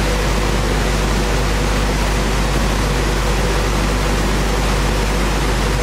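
Wood-core profile sanding machine running steadily: a constant, loud rushing noise with a low hum underneath.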